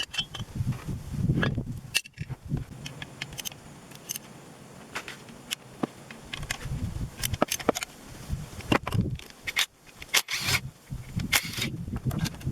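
Irregular metallic clinks, knocks and short scrapes of tools and parts being handled, with no engine running.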